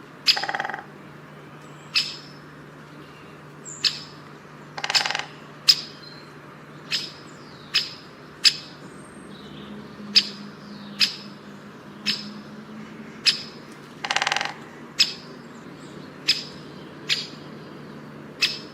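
A songbird calling with a sharp, quickly falling whistle-like note about once a second. Three times, near the start, about five seconds in and about fourteen seconds in, it gives a longer harsh, buzzy call. A steady low hum runs underneath.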